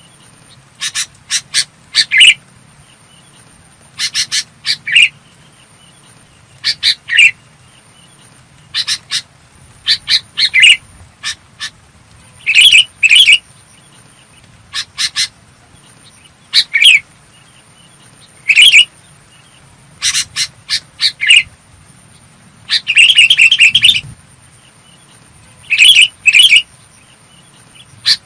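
Sooty-headed bulbul singing: short, clear, bubbly phrases repeated every one to two seconds, with a faint steady high whine underneath.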